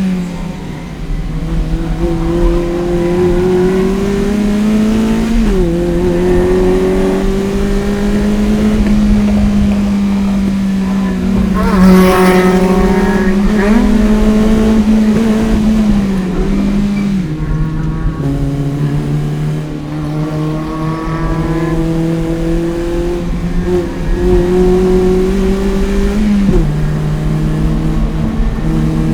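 Toyota MR-S's 1ZZ 1.8-litre four-cylinder engine, fitted with an aftermarket header and Fujitsubo exhaust, pulling hard at track speed. Its pitch climbs slowly and drops sharply at upshifts about five, seventeen and twenty-six seconds in, with a brief louder spell of swinging pitch around twelve seconds in.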